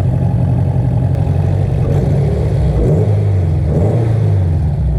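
Turbocharged Honda S2000 with a freshly installed F22C 2.2-litre four-cylinder engine running steadily at idle, the engine note rising briefly twice, about three and four seconds in. It is the first run after the engine swap, and the engine sounds healthy.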